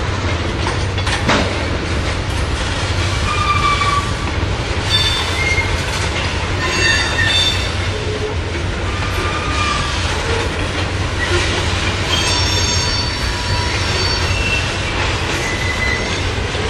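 A train rolling past with a steady low rumble, its wheels squealing in short, high-pitched squeaks again and again.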